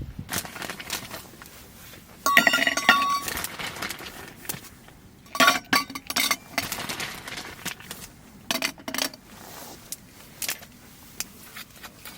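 Hard objects clinking and knocking together, with a ringing clatter about two seconds in and another loud cluster of knocks around five and a half seconds.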